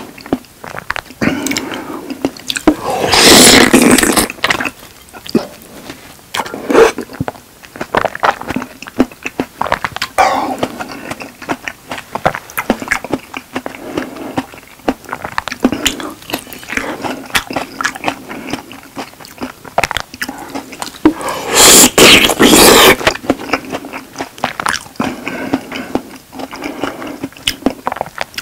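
Close-miked eating sounds of a person chewing a glazed steak held in the hands: wet chewing with many small clicks and smacks. Twice there are louder, longer noisy stretches, about three seconds in and again near twenty-two seconds.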